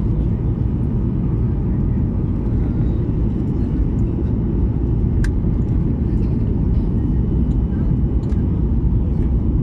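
Steady low rumble of an airliner's engines and airflow heard inside the passenger cabin during the landing, with one sharp click about five seconds in.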